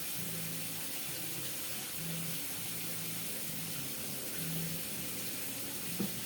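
Steady hiss of cooking oil heating in a hot pan, with a single clack about six seconds in.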